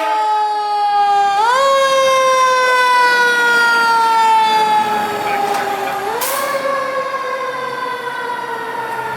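Fire engine siren running: its pitch jumps up quickly, then slowly falls, twice, about five seconds apart.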